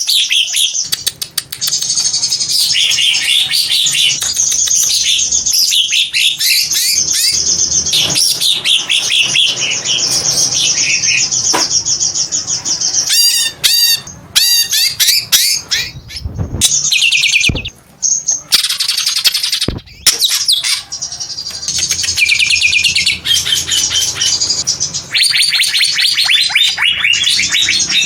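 Green leafbird (cucak ijo) singing a long, loud song of rapid, varied chirps, trills and squawks, with a few brief breaks in the middle and fast repeated notes near the end.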